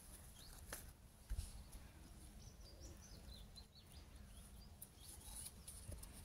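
Quiet outdoor ambience with faint, high, short bird chirps, most of them in the middle, over a low rumble. A soft thump comes a little over a second in.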